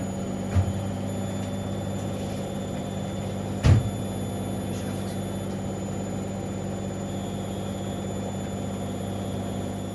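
Siemens Extraklasse XLs 140 A washing machine running a wash cycle with a steady motor hum. There is a short knock about half a second in and a louder thump a little before the middle.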